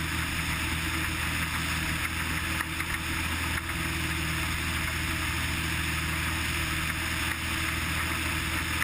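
Cessna 180's six-cylinder piston engine and propeller droning steadily in flight, with a constant rush of air noise.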